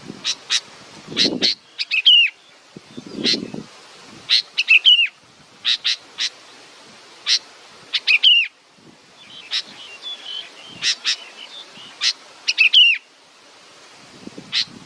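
Young bird chirping over and over: short, sharp high chirps in quick groups, several ending in a falling slur. A few low rustles come in the first few seconds.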